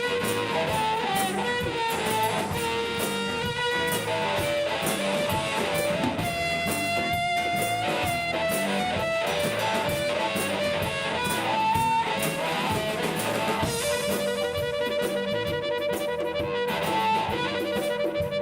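Live rock band playing an instrumental passage: electric guitar with a melodic lead over chords and a steady drum beat.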